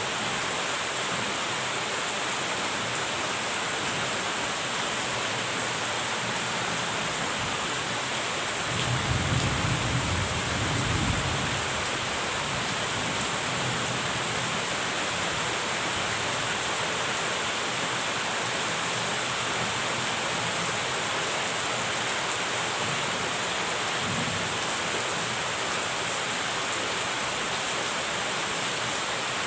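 Steady rain falling, with a low roll of thunder swelling for about three seconds around nine seconds in, and a fainter rumble later on.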